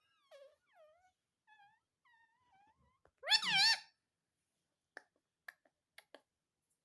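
Ring-necked parakeet vocalising: a run of soft, short pitched calls, then one loud wavering call about three seconds in, followed by a few faint clicks.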